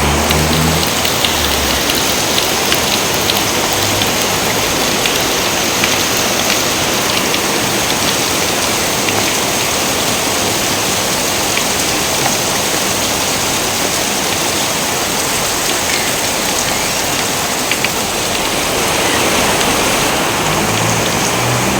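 Steady heavy rain with individual drops ticking through it. A low thunder rumble fades out in the first second or so and starts again near the end.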